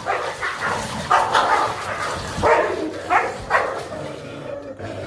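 Dogs barking in a scuffle, a dominant male driving off a rival male that is pressing on a female in heat. A run of short, sharp barks, with the loudest three close together about two and a half to three and a half seconds in, then dying away near the end.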